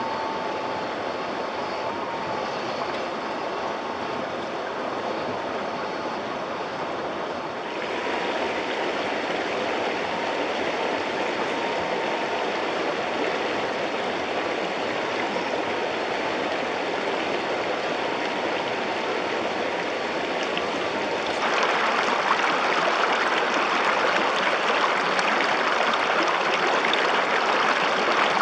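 Rushing river water, a steady wash of noise, with the faint thin whine of the RC truck's 370 electric motor and gearbox running through it for the first two-thirds. The water gets louder in abrupt steps, most sharply about two-thirds of the way through.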